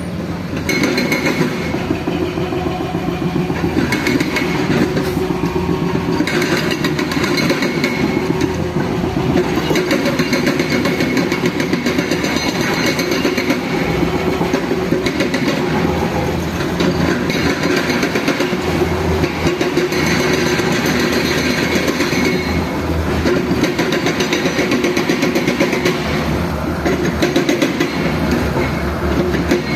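Heavy diesel construction machinery running steadily, a loud engine with a fast, even rattle.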